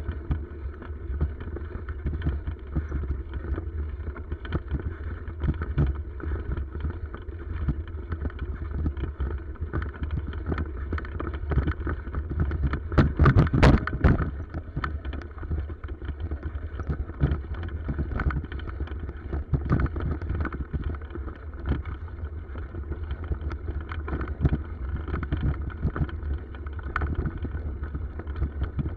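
Bicycle ride over a rough forest track heard through a bike-mounted camera: a steady low rumble with wind on the microphone and frequent small rattles and knocks, and a louder jolt about halfway through.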